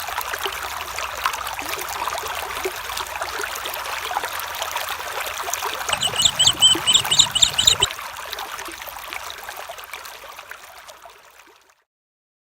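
Small stream trickling and babbling over stones. About six seconds in, a brief run of high, quickly repeated chirping notes sounds for about two seconds. The sound fades out near the end.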